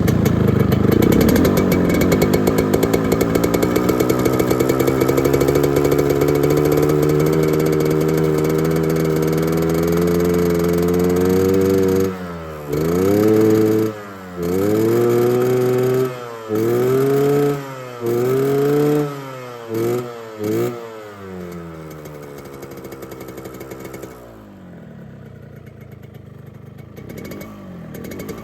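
Yamaha RX-King 135cc two-stroke single with its standard exhaust, revving. The engine climbs steadily in pitch for about twelve seconds, then gets six short throttle blips that each rise and fall, and settles to a quieter idle near the end. The exhaust has the snoring 'ngorok' note.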